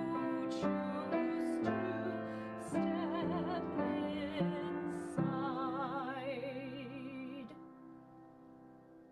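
A recorded hymn: a singer with strong vibrato over piano chords, ending on a long held note. The last piano chord then fades away.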